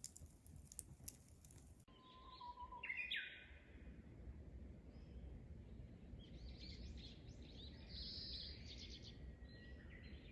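Birds calling faintly: one short, clear call about three seconds in, then a run of chirps over the last few seconds. Light clicks are heard before a cut about two seconds in.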